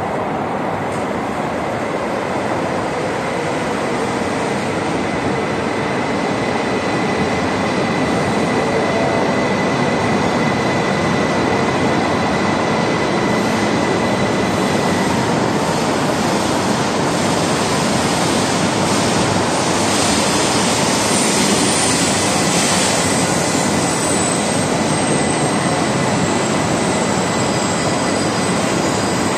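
E2 series Shinkansen train arriving at an underground station platform: steady running noise of the train moving in, with a thin high whine through the first half, growing a little louder as the cars come alongside.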